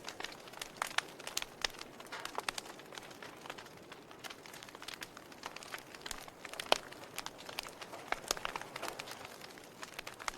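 Wood log fire crackling: irregular sharp pops and snaps over a soft hiss, with one louder pop about two-thirds of the way through.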